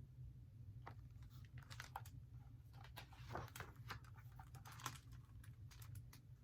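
Faint scattered clicks and a soft rustle of something being handled, over a low steady hum.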